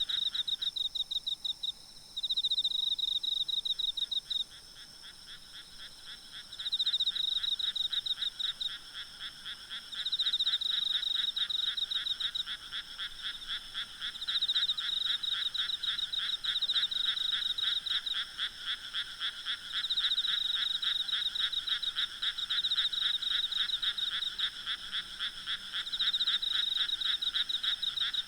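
Night chorus of frogs: rapid pulsing trills repeated in bouts of a few seconds, overlapping one another, over a faint steady high insect hum.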